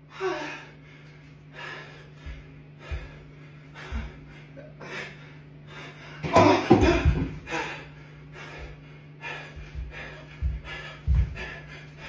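A person's short, wordless vocal noises, gasps and yelps, in quick separate bursts, with a louder outburst about six seconds in and a few dull thumps in the later part, over a steady low hum.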